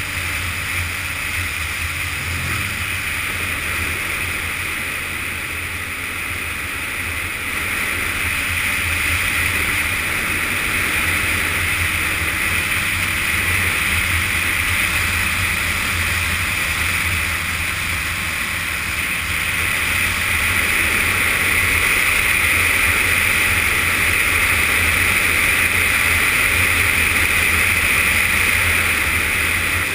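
Riding on a Yamaha FZS600 Fazer motorcycle: steady wind rush on the GoPro action camera over the inline-four engine running at cruising speed. It grows louder about eight seconds in and again around twenty seconds, as speed picks up.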